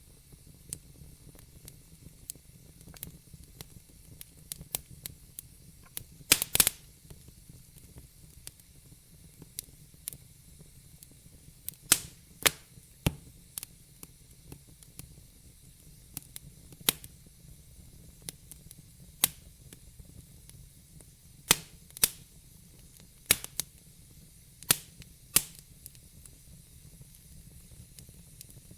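Wood fire crackling in a fireplace: irregular sharp pops and snaps, a few of them much louder, over a low hiss of burning.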